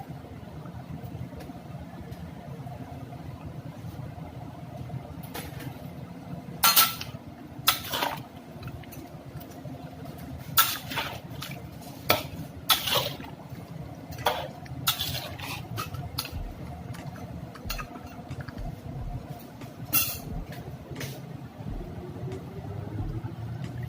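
A metal utensil clinking and scraping against a cooking pot, a dozen or so sharp knocks scattered irregularly from about six seconds in, over a steady low hum.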